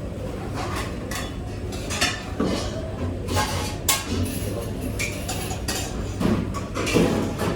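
Dishes, pots and cutlery clattering and clinking as they are handled during washing up, in irregular knocks and clinks.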